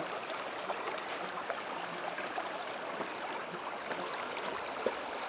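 Creek water flowing and rushing steadily, with a few faint clicks over it.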